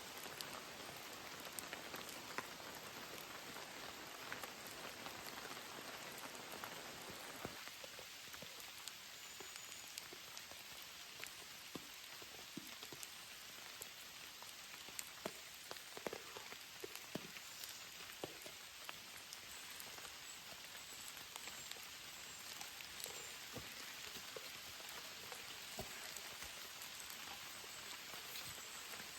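Steady rain falling, a constant hiss with many separate drops ticking close by.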